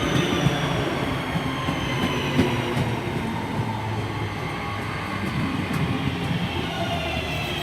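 Class 323 electric multiple unit pulling into the station and slowing, its motor whine falling gradually in pitch over a steady rumble, with a few sharp clicks from the wheels.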